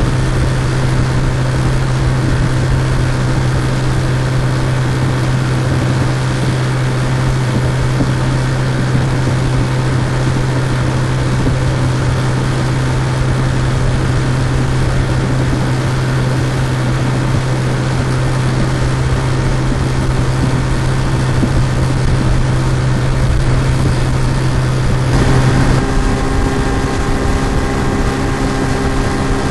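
Looped outboard motor sound effect, the engine running steadily at speed. About 25 seconds in, the engine note changes abruptly, as at a seam in the loop.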